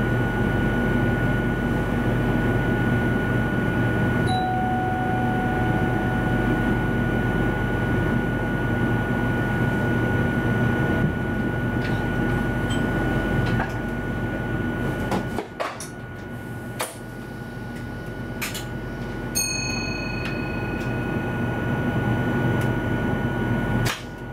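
Steady hum of an electric passenger train's equipment heard in the driver's cab, with a constant high whine over it. In the second half a few sharp clicks come, and the hum steps down twice, with the whine cutting off near the end.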